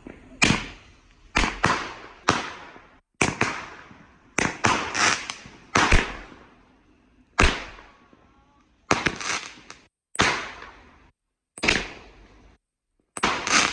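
Fireworks going off: a string of about sixteen loud, sharp bangs at uneven intervals, several in quick clusters, each with a short tail that dies away.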